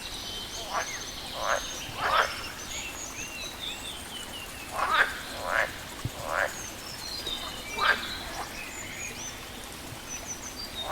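Frogs croaking, single short croaks at irregular intervals in loose groups, the loudest a little after the middle and near the end, with small birds chirping and trilling high above them.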